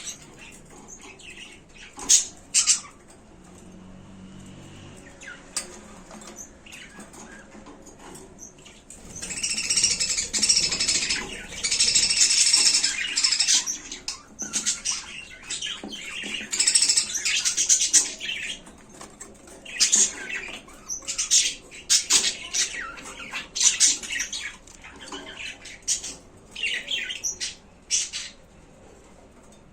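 Budgerigars chattering and chirping in irregular bursts, with some wing flutters; the chatter is loudest about a third of the way in.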